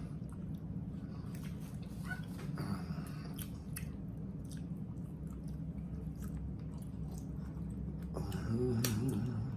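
Close-miked chewing and mouth sounds of people eating, with many short scattered clicks, over a steady low hum. A brief murmured voice comes in near the end.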